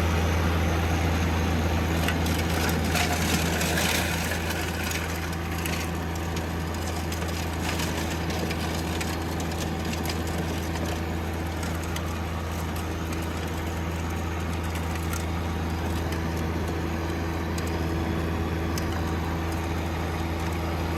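John Deere 1025R compact tractor's three-cylinder diesel engine running steadily, with scattered clicks and rattles in the first few seconds.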